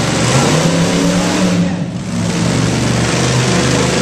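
Monster truck engine running loudly and revving, easing off for a moment about two seconds in.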